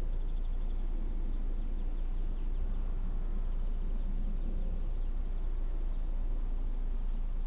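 Small birds calling, a run of short quick falling chirps repeating several times a second, over a steady low outdoor rumble.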